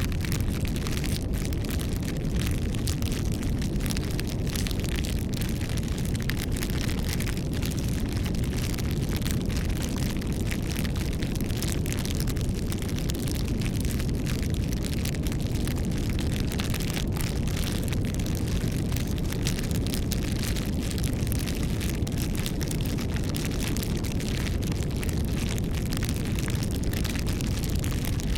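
Wood bonfire burning: a steady low rumble of flames with frequent sharp crackles and pops from the burning wood.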